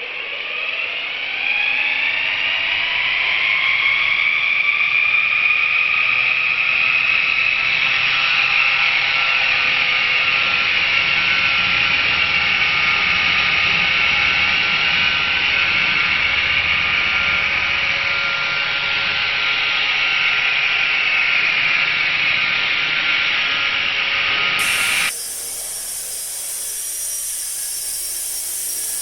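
Kyosho EP Caliber M24 electric RC helicopter's motor and gears whining as the rotor spools up, rising in pitch over the first two seconds. It then holds a steady high whine that wavers slightly in flight, and cuts suddenly to a quieter sound about 25 seconds in.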